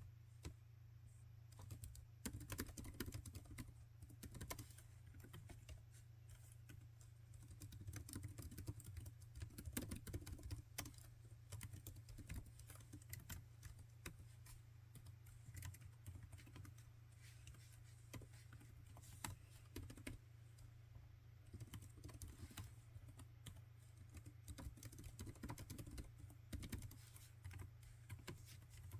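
Laptop keyboard being typed on: quick runs of soft key clicks with short lulls between them, over a steady low hum.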